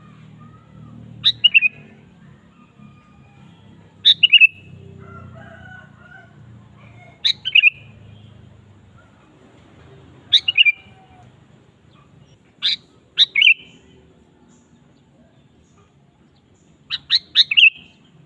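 Sooty-headed bulbul (kutilang) calling: short, loud bursts of two to four quick notes, repeated about every three seconds.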